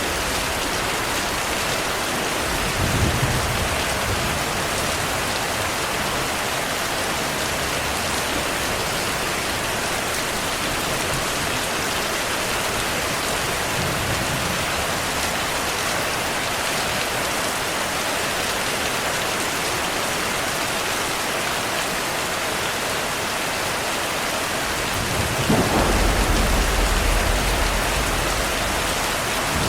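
Heavy rain falling steadily, with low rolls of thunder: a short one about three seconds in, a faint one midway, and a longer, louder rumble near the end.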